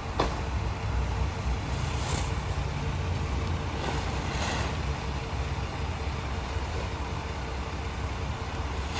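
International HV garbage truck's engine running steadily under a Heil rear-loader body, with a faint steady whine. There is a click just after the start, and two short hisses of air about two and four and a half seconds in.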